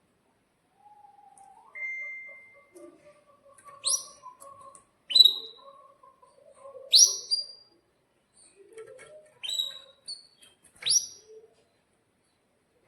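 Domestic canary giving sharp, piercing 'cuit' chirps, about six quick downward-sweeping calls a second or two apart, with a short steady whistle early on and soft twittering between them.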